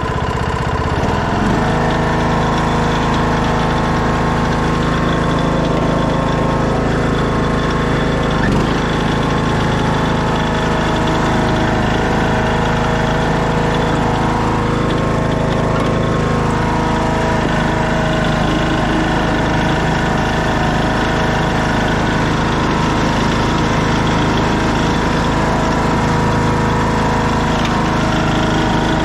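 2014 Craftsman T1600 lawn tractor's engine idling steadily just after starting.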